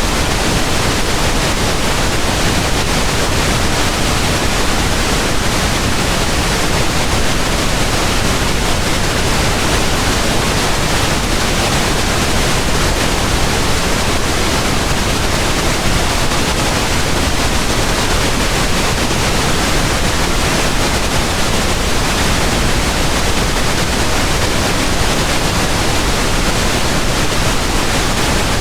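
Synthetic pink noise: a steady, even hiss across all pitches, with no change, rhythm or separate events.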